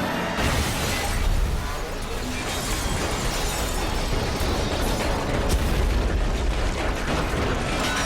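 Film action sound mix: a dense, continuous rumble of explosion and crash effects with several sharp impacts, over loud score music.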